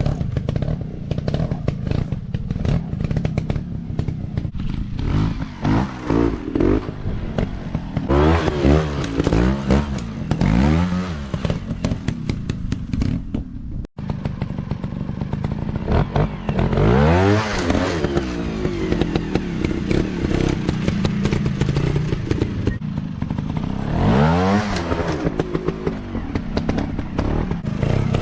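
Motocross dirt bike engines revving up and down again and again, the pitch climbing and falling with each burst of throttle, with some clatter. The sound cuts out for an instant about halfway through.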